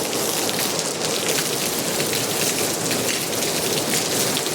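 Heavy rain pouring down in a storm, a loud steady hiss thick with the patter of drops.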